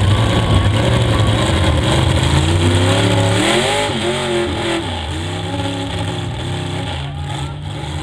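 Mega truck engine running loud with a heavy rumble, its revs climbing over the first few seconds. It drops quieter about four seconds in, the revs then rising and falling.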